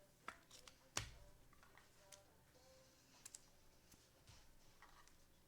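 Faint, scattered clicks and taps of trading cards and their plastic being handled, with one sharper tap about a second in.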